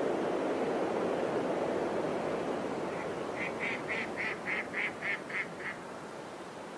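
A bird calling a quick run of about nine short, evenly spaced notes, over a steady rush of surf.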